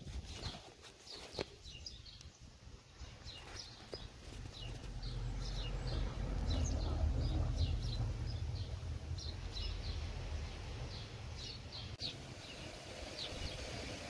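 Small birds chirping in short repeated calls. A low rumble swells about four seconds in and is the loudest sound, easing off near the end.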